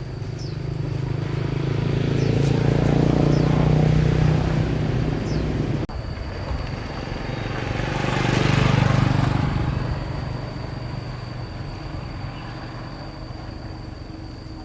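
A motor vehicle's engine passing by twice: each pass grows louder, peaks, then fades. The first pass ends abruptly about six seconds in.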